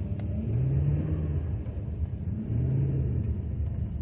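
Pickup truck engine and road rumble heard from inside the cab, with the engine note rising twice as the truck pulls away on a snowy road.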